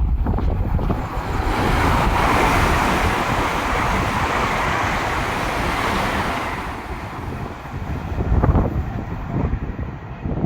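A train passing at speed: a rushing hiss of wheels and air that swells about a second and a half in and fades away after about five seconds, with wind buffeting the microphone throughout.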